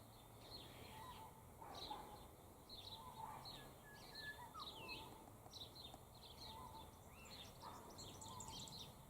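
Faint chorus of wild birds: many short, high chirps and twitters, mixed with some lower calls, over a soft background hiss.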